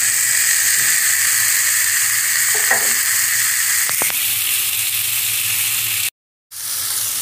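Tomato-onion masala sizzling steadily in oil in a kadhai as sliced potatoes and carrots are tipped in, with a couple of faint clicks. The sound cuts out completely for a moment near the end.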